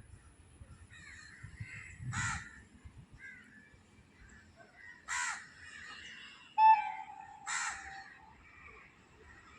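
Crows cawing: three single harsh caws a few seconds apart. A loud steady tone starts suddenly about two-thirds of the way through and lasts about a second and a half.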